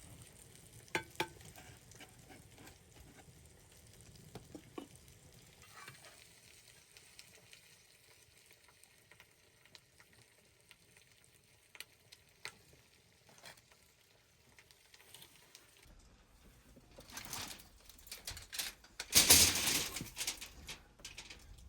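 Food sizzling faintly in a frying pan, with scattered small clicks. Near the end a louder noisy burst rises and lasts a couple of seconds.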